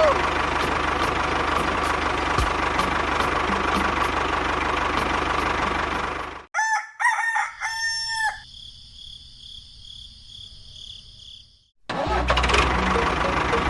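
A loud steady running noise with fine ticking cuts off suddenly about six and a half seconds in. A rooster then crows, its call ending in a quieter held high tone. The loud noise comes back near the end.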